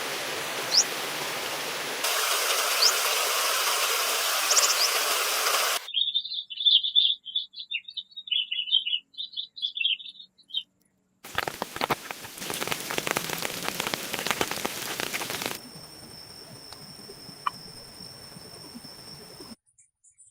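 A string of short nature sounds joined with hard cuts. First a steady rain hiss with a few quick bird chirps, then a songbird warbling alone. Then a dense, clicking hiss, and finally two steady high-pitched tones over a faint hiss.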